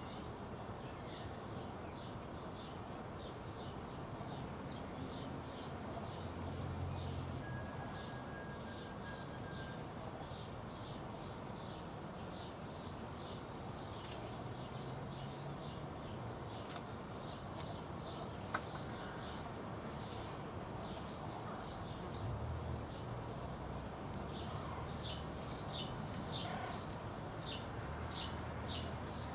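Small birds chirping in quick, irregular runs of short, high notes over a steady background hiss.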